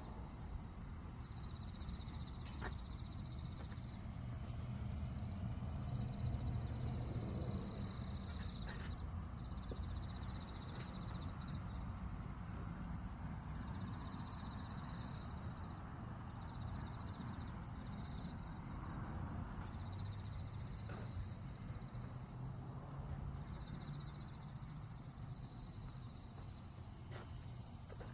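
Firewood burning in a wood stove: a steady low rumble with a few sharp crackles and pops scattered through. A faint high whine comes and goes.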